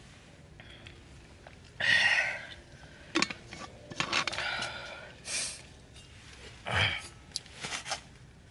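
Irregular handling sounds: short rustles and a few sharp clicks and light knocks, as of camping gear being moved about.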